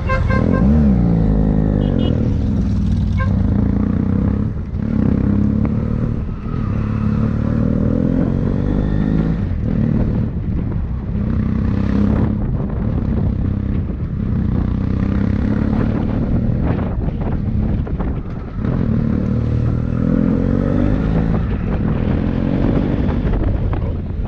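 Motorcycle engine running under way, its pitch rising and falling again and again as the throttle opens and closes, with brief dips several times.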